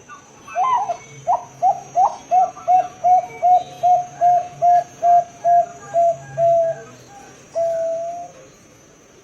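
Zebra dove (Bangkok perkutut) singing its full song: a short opening phrase, then a run of about fifteen quick, evenly spaced coos at roughly three a second, closed by one long drawn-out final note.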